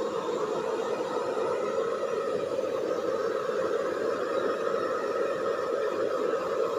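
Handheld hair dryer running steadily, a continuous blowing hum with no change in speed.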